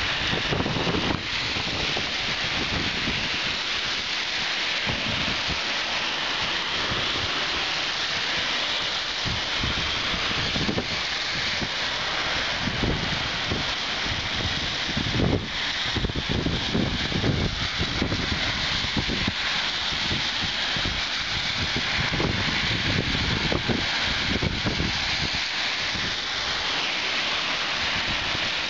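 Heavy rain pouring steadily during a storm, with gusts of wind buffeting the microphone and a single sharp knock about halfway through.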